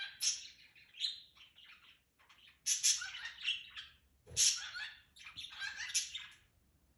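Cockatiel singing: runs of chirps and warbling whistles in several short phrases with brief pauses between them.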